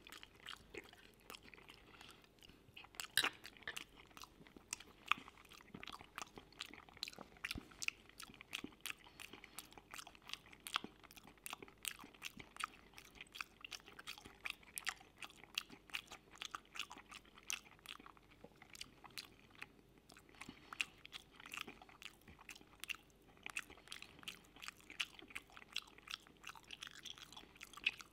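Close-miked chewing of a mouthful of creamy mushroom pasta: a steady run of short mouth smacks and clicks, several a second.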